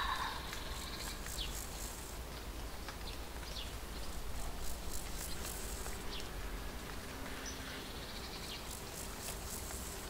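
Wild nature ambience: insects buzzing in patches, with a few short bird chirps over a steady low rumble. A repeated bird call fades out within the first moment.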